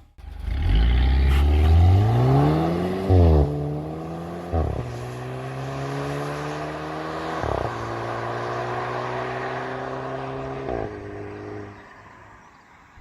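Mercedes-Benz CLA 250's turbocharged four-cylinder engine and stock exhaust under hard acceleration: the pitch climbs steeply, drops at an upshift about three seconds in, then rises slowly through the gear. Brief sharp bursts come three times, and the sound fades away near the end.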